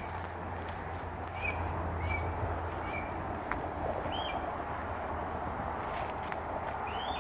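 A bird in the tree canopy giving short, harsh call notes about once a second, then two rising calls, one about four seconds in and one at the end, over a steady background hiss.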